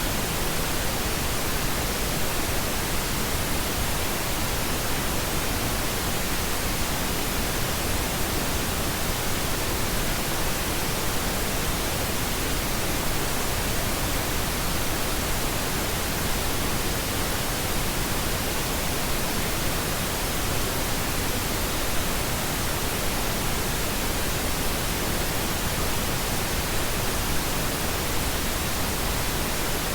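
Steady synthetic pink noise: an even, unchanging hiss spread across all pitches, with no events or variation.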